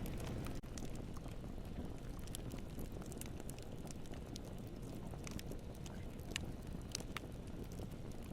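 Wood campfire burning: a steady low rumble of flames with scattered sharp crackles and pops from the burning wood, a dozen or so, irregularly spaced.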